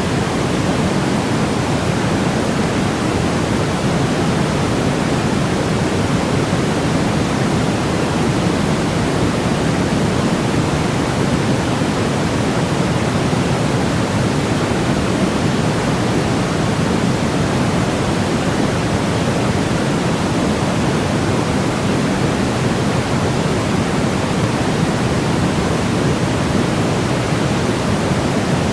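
Steady, unchanging synthetic white noise for baby sleep, weighted toward the low and middle range so that it sounds more like a deep hiss than a bright one.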